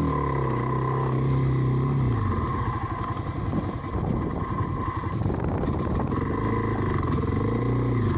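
Dual-sport motorcycle engine labouring through deep sand: a steady engine note that drops away about two seconds in, a few seconds of irregular rattling, then the engine surging up and down again near the end.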